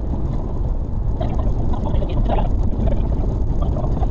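Suzuki Carry kei truck with a 660cc engine driving off-road, heard from inside the cab as a loud, dense low rumble.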